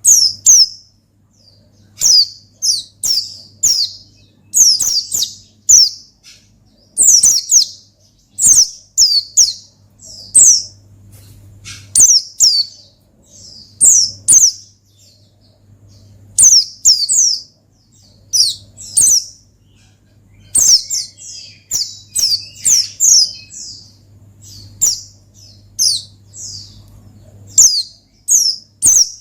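White-eye (pleci) calling in rapid bursts of two to four high, quickly falling chirps, repeated every second or two: loud, excited 'gacor' calling of the kind that challenges a rival bird. A faint steady low hum lies underneath.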